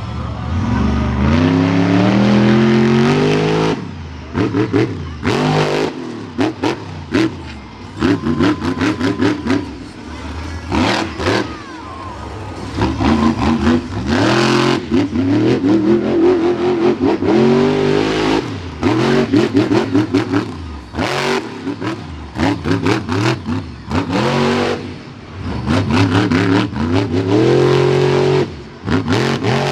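Monster truck engine revving hard again and again during a freestyle run, its pitch climbing and dropping in quick surges, with many short sharp bangs mixed in.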